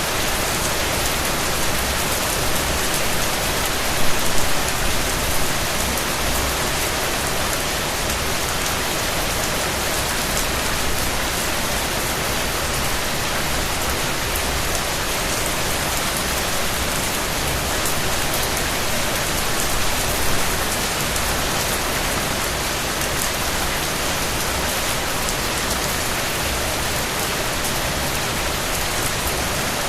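Steady rain falling: an even hiss of drops on surfaces, briefly louder about four seconds in.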